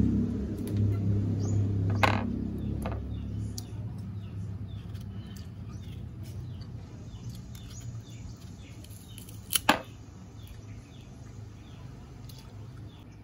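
A low rumble, like a passing vehicle, fades out over the first few seconds while small birds chirp. A few sharp clicks or knocks cut through, the loudest about nine and a half seconds in.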